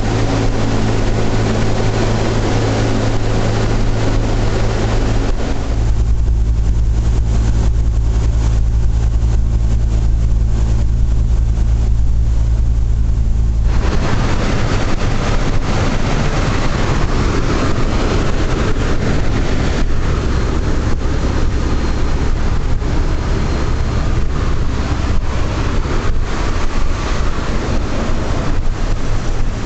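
Radial engines of a Boeing B-17 Flying Fortress running with a steady, loud drone. About six seconds in the sound turns abruptly deeper and duller, and about fourteen seconds in it switches back to a brighter drone.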